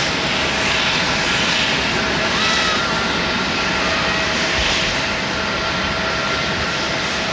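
Airliner engines running close by: a loud, steady rush of noise with a thin whine held at one pitch.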